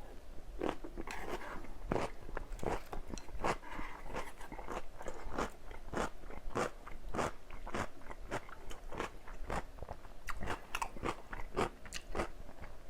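Close-miked chewing of crisp vegetables, a quick run of wet, crisp crunches, about two or three a second.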